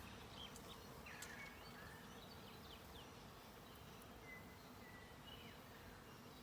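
Faint steady buzzing of a honeybee swarm, with a few faint short high whistles.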